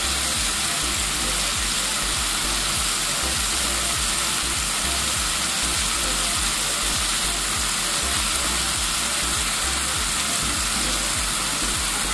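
Boiled chicken livers and gizzards sizzling in fried spice paste in a frying pan: a steady, even hiss.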